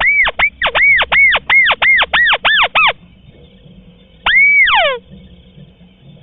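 White-browed crake calling: a fast run of about a dozen rising-and-falling notes that quickens and stops about three seconds in. After a pause, one longer arched note followed by a few quick falling notes.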